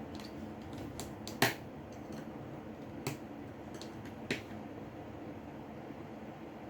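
Sharp, scattered clicks and taps of small repair tools against a smartphone's parts during disassembly, about four distinct clicks with the loudest about a second and a half in.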